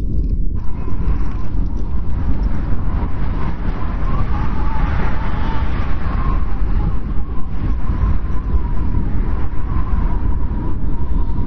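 Strong snowstorm wind blowing steadily, a deep rumble with a faint thin whistle over it that swells slightly about halfway through.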